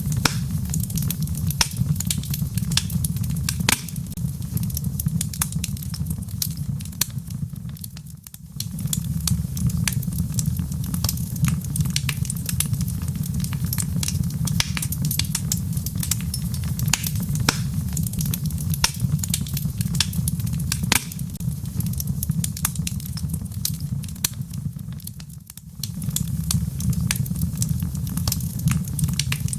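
Wood fire burning in a fireplace: a steady low roar of flames with frequent sharp crackles and pops from the logs. The roar dips briefly twice and comes back.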